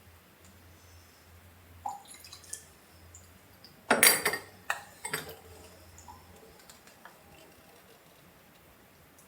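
Ceramic gaiwan and teaware being handled, with light porcelain clinks. About four seconds in comes a brief louder pour of water, followed by a few more clinks of lid and bowl.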